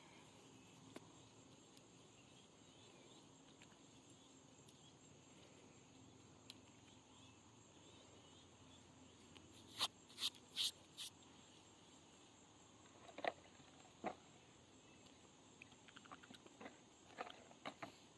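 Near silence with a faint steady high insect hum. About ten seconds in come four sharp clicks in quick succession, then two more a few seconds later and a scatter of small ticks near the end.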